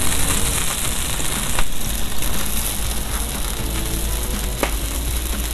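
Diced chicken sizzling in oil on a hot flat-top griddle under a stainless steel basting cover, a steady hiss with one sharp click about a second and a half in. Background music plays underneath.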